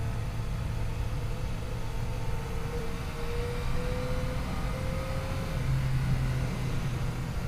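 Yamaha FJ-09's inline three-cylinder engine running steadily on the move, its pitch rising slowly, with a step up in the engine note about two thirds of the way through, under a constant rush of noise.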